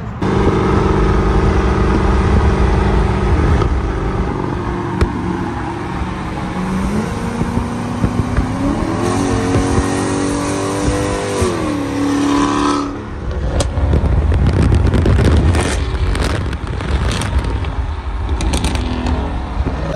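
Vehicle engine running and accelerating; its pitch rises, holds, then falls about twelve seconds in. After that there is steady road and wind noise at highway speed, with scattered knocks and clatter.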